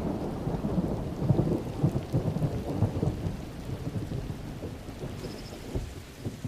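Thunder rumbling and crackling over steady rain, the storm's sound slowly dying away over the last couple of seconds.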